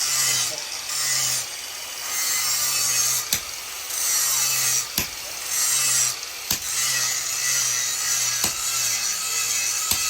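Hand sawing on steel, steady back-and-forth strokes about one a second, with a few sharp clicks in between.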